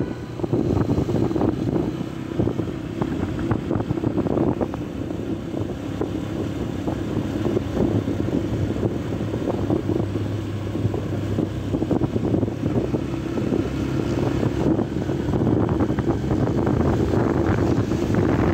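Yamaha YB125Z's 125 cc single-cylinder four-stroke engine running steadily at high revs at speed, with wind buffeting the microphone.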